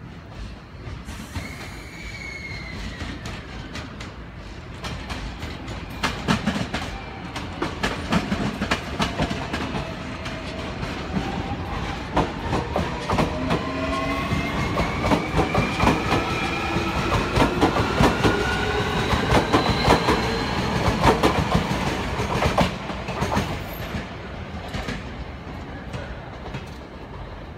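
Keio Inokashira Line electric commuter train running past close by, its wheels clacking over rail joints. Its traction motors give a whine of several tones rising together as it gathers speed, loudest in the middle and fading near the end.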